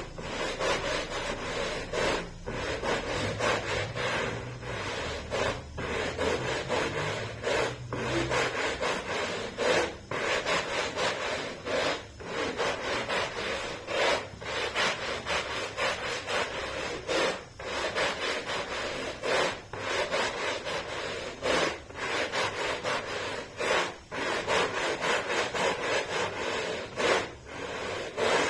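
Hand scrubbing of a carpet's pile, a steady rasping rub in long strokes broken by short pauses about every two to three seconds.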